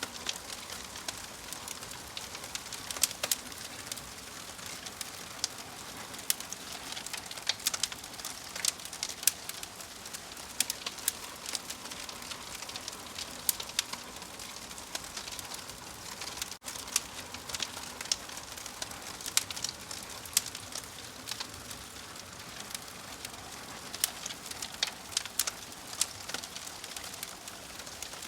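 Wood fire crackling: irregular sharp pops and snaps over a steady hiss, with the sound cutting out for an instant a little past the middle.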